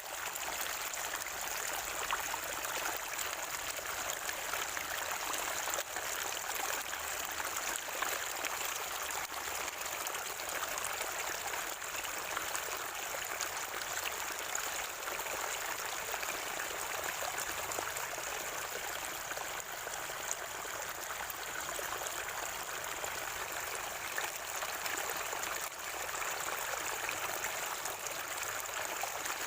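Water from a natural spring gurgling and trickling steadily, with small splashes scattered through it.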